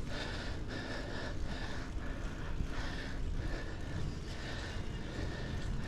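Steady ride noise from a folding bicycle: a low rumble from the tyres rolling on the road, with wind on the microphone.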